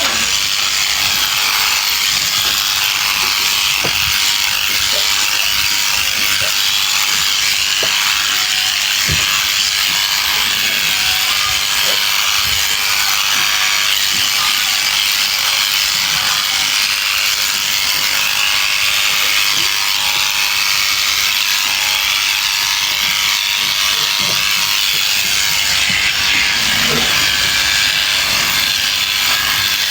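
Electric sheep shears running steadily, their high buzz unbroken as they cut through fleece, with a few faint knocks underneath.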